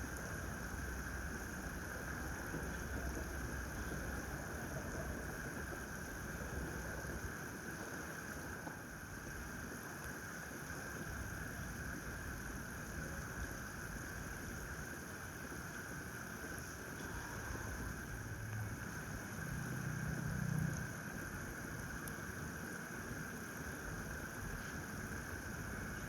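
Steady outdoor background noise with a low rumble and a constant hiss, with no clear bird calls; a brief louder low rumble swells and fades about twenty seconds in.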